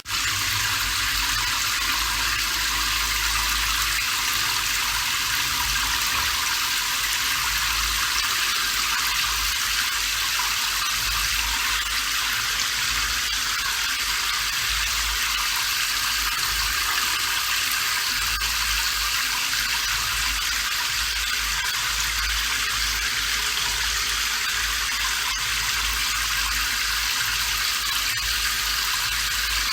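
Steady rain falling: an even, unbroken hiss with a faint low rumble beneath.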